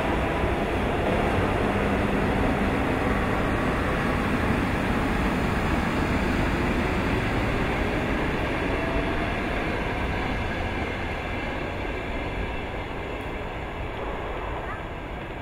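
Electric commuter train pulling away down the line, its running noise on the rails slowly fading as it recedes.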